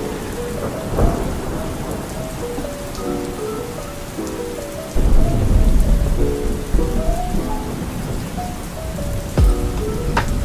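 Steady rain with thunder: a deep rumble sets in suddenly about five seconds in, with sharp cracks around a second in and near the end. A soft melody plays underneath.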